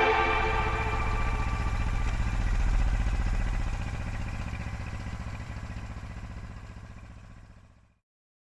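An engine running with a low, fast-pulsing rumble that slowly fades and then cuts off about eight seconds in.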